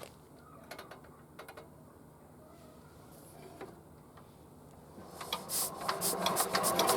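Faint scattered clicks, then about five seconds in a Yanmar diesel engine starts: a rapid knocking that quickens and grows steadily louder as the engine catches and runs.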